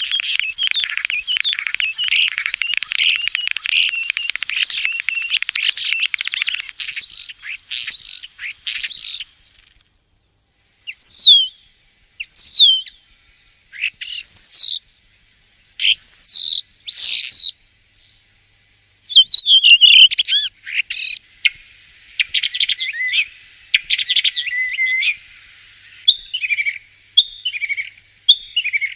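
Common starling singing: a long dense run of rapid chattering and warbling, then a series of separate sliding whistles with short pauses, then more chattering and clipped notes.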